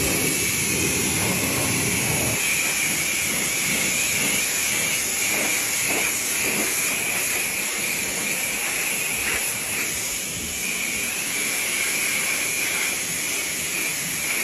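Pressure washer spraying water: a steady hiss of the jet with a high whine running through it.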